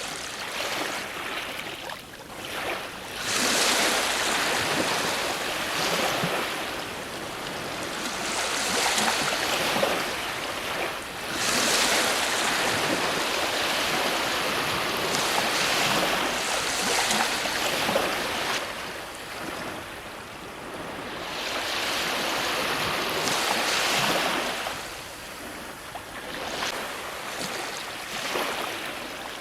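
Ocean waves breaking and washing on a shore, the surf swelling and ebbing in repeated surges every few seconds.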